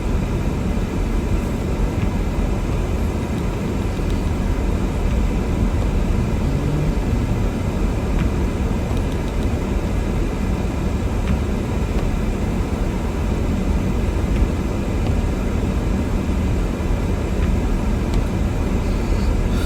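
Steady low rumble of a car being driven on a snow-covered road: engine and tyre noise with no sharp events.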